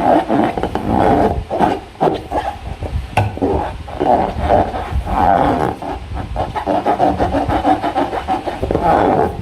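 A rubber balloon and slime being handled, making continuous rubbing, rasping and squishing sounds with scattered sharp clicks.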